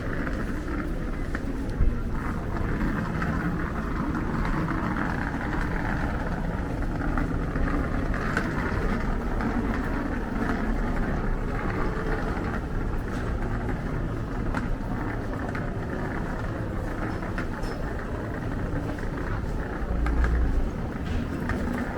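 City street ambience: traffic going by with indistinct voices under it. There is a brief sharp knock about two seconds in, and a low rumble swells near the end.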